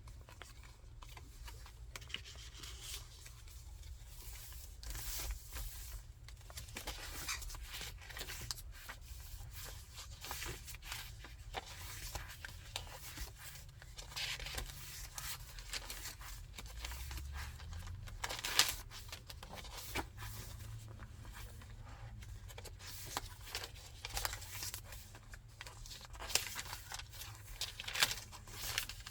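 Pages of a thick handmade paper junk journal being turned and handled: paper rustling and crinkling with scattered soft flicks, and a couple of sharper snaps partway through and near the end.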